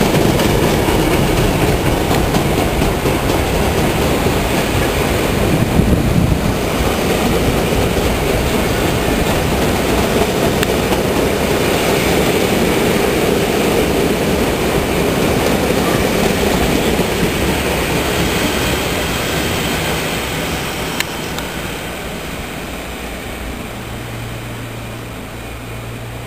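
Loaded ballast wagons of a freight train rumbling and clattering past below, the noise dying away over the last third as the train draws off. Near the end a low steady drone comes in from the trailing Class 66 diesel locomotive's engine as it passes and pulls away.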